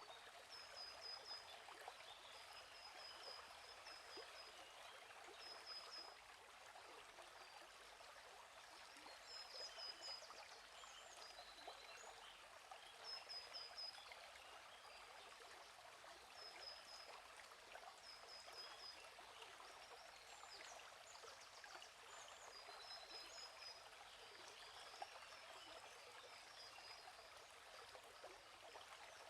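Faint, steady babbling of a flowing stream, with a small bird repeating short runs of quick high chirps every few seconds.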